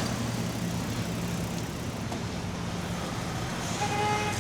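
Road traffic with a vehicle engine's steady low hum. A car horn starts to sound near the end.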